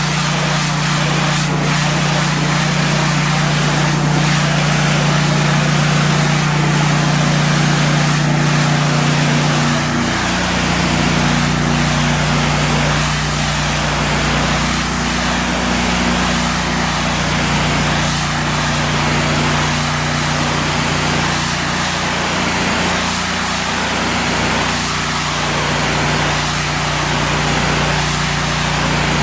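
Engine-driven pressure washer running steadily, with the hiss of its high-pressure water spray. The engine's note shifts slightly about a third of the way through.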